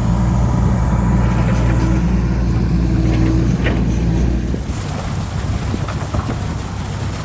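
Diesel engine of a John Deere 60G mini excavator running steadily, then dropping away about two-thirds of the way through, leaving a steady rushing noise.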